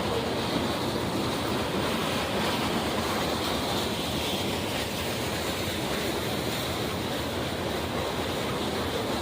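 Steady rushing roar of a passing train rolling by at an even level.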